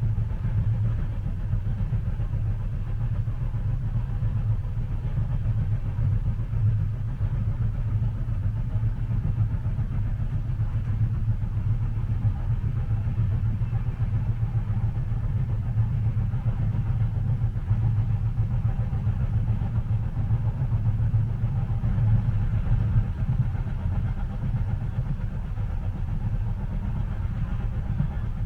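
Steady low rumble of a passenger train in motion, heard from inside the carriage, with a faint hiss above it and no distinct wheel clicks.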